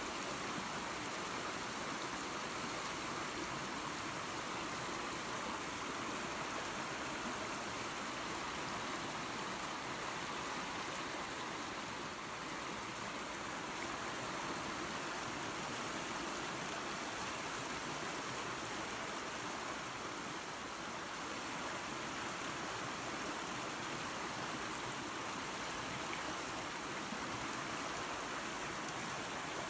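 Small waterfall and creek, water running and splashing in a steady rush.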